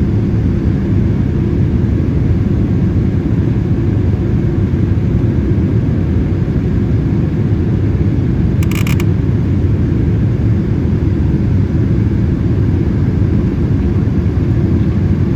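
Steady low rumble of a Boeing 787-8's engines and rushing air, heard from inside the cabin in flight. A single brief high-pitched ping sounds about nine seconds in.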